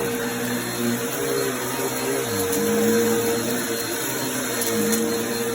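Vacuum cleaner running over a rug and sucking up confetti, a steady rushing hum whose pitch shifts as the load changes, with a few faint crackles.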